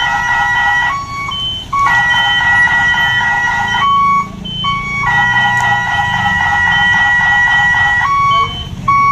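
Dump truck's electronic reversing alarm playing a pulsing multi-note tune in three stretches, with single short beeps between them, over the low rumble of the truck's engine.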